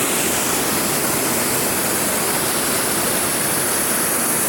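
Waterfall pouring into a deep pool: a steady, unbroken rush of water.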